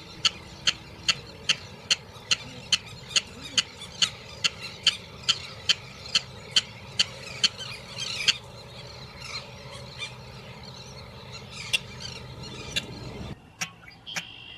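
A sintar besar rail giving its clacking, lato-lato-like call: sharp, evenly spaced clacks at about two to three a second, thinning out after about eight seconds. Near the end the sound drops in level and quieter clacks carry on.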